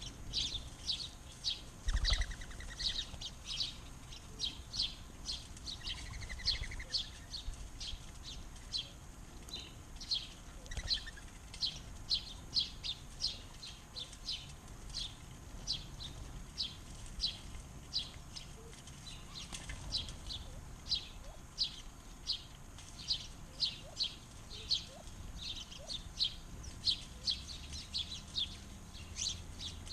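Small backyard birds chirping: a rapid, even series of short high chirps, about two to three a second, with a few lower calls mixed in and a low thump about two seconds in.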